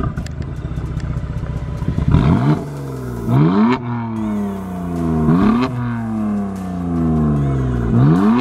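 BMW F80 M3's S55 twin-turbo straight-six, fitted with SSR downpipes, idling and then revved in four quick throttle blips, the first about two seconds in; each time the revs shoot up and then fall away slowly.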